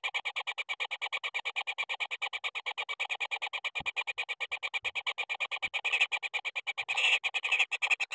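Kingfisher nestlings begging: a rapid, even train of harsh pulses, about nine a second, growing louder near the end.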